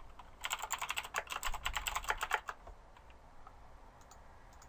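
Typing on a computer keyboard: a quick run of key clicks for about two seconds, then a few scattered keystrokes.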